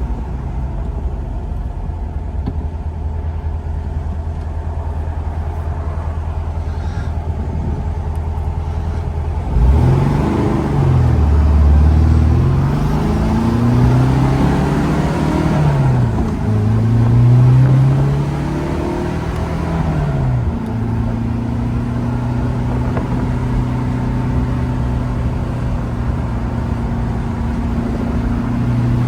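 1972 Porsche 914's engine running while driving: steady at first, then from about ten seconds in its pitch rises and falls several times as the throttle is worked, before settling into a steady, higher drone for the rest of the time.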